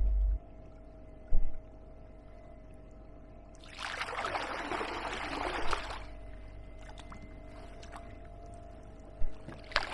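Water splashing and pouring off a kayak paddle for about two seconds, starting a few seconds in, over a faint steady hum. A low wind buffet on the microphone at the start.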